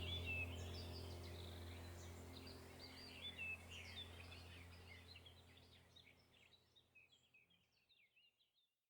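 Small birds chirping and twittering over a steady low hum, the whole sound fading out to silence near the end.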